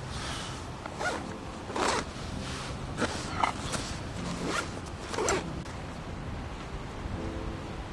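A zipper being pulled in a series of short strokes.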